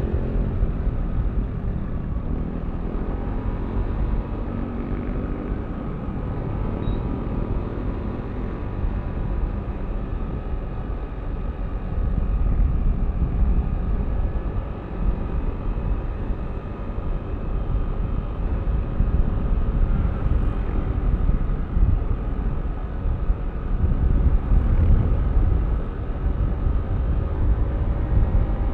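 Yamaha Aerox V3 scooter's 155 cc single-cylinder engine running as the scooter is ridden, a steady drone with a heavy low rumble of air and road noise underneath. It gets a little louder about twelve seconds in and again near the end.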